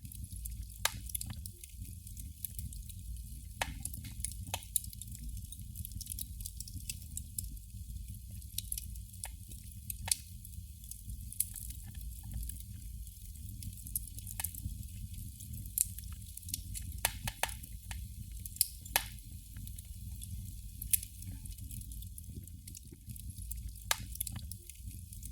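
Candle flame crackling: irregular small pops and snaps from the burning wick, several of them sharp and louder, over a low steady background hum.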